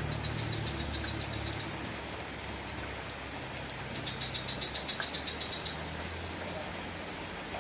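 Steady rain falling. Under it, a motor vehicle's engine hum fades away over the first few seconds. Short runs of a rapid, high-pitched pulsing come twice, near the start and in the middle.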